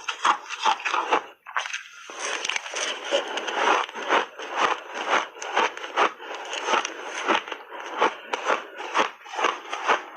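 Someone chewing crunchy frozen shaved ice in big bites, a steady run of loud crunches at about two to three a second, with a brief pause about one and a half seconds in.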